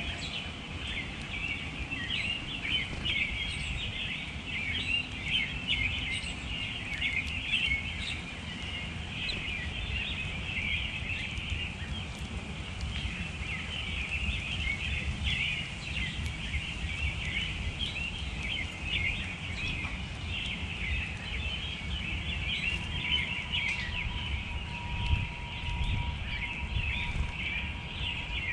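Many small birds chirping and twittering at once, a dense unbroken chatter, over a steady low rumble.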